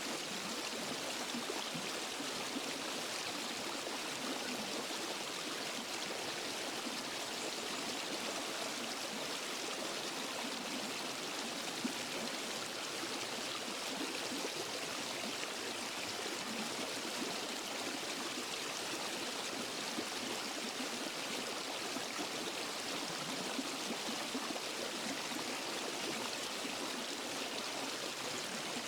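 Waterfall and stream water rushing and splashing in a steady, unbroken flow.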